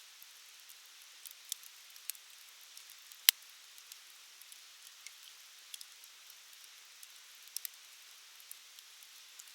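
Wood campfire crackling: a soft steady hiss with scattered sharp pops and one loud crack a little over three seconds in.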